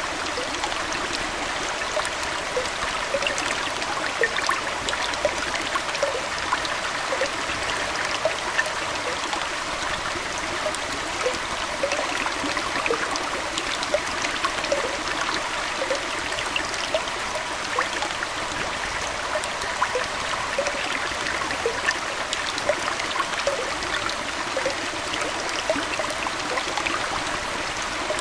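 Aquarium water trickling and splashing steadily, with frequent small, quick plinks throughout.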